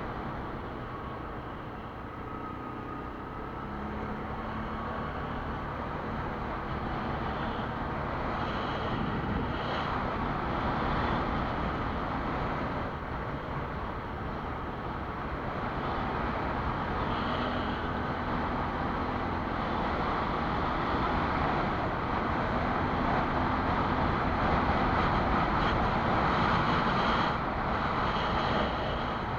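Quad bike's engine running as it rides along, the engine and road noise growing gradually louder through the second half.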